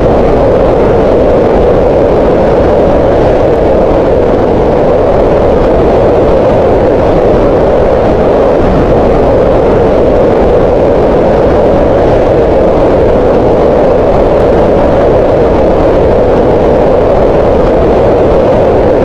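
Green noise: a loud, unchanging hiss whose energy is centred in the middle range around 500 Hz.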